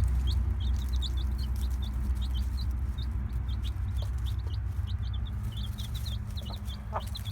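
Young chicks peeping: many short, high cheeps repeating over a steady low hum, with one lower call near the end.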